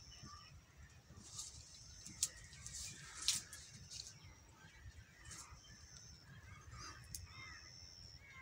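Faint outdoor birdsong: thin, high calls that come and go every second or two, with a few soft sharp clicks.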